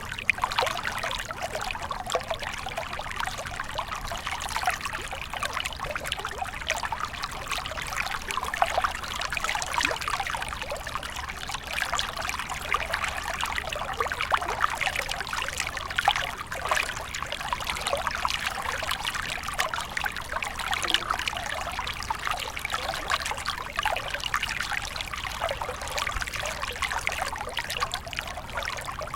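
Small stream of water trickling and splashing steadily over stones, with constant bubbling.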